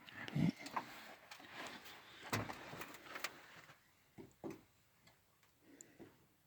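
Scattered light clicks and knocks of tools and small metal parts being handled, busier in the first few seconds and then thinning out.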